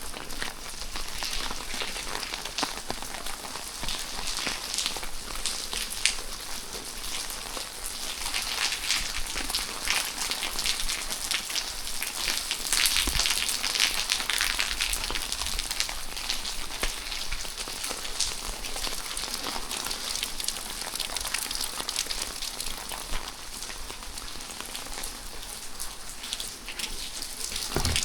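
Steady rain falling, a dense hiss of many small drop hits, heavier for a few seconds in the middle.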